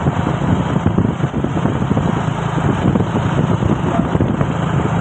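Diesel truck engine running steadily close by, a rough, rattly drone.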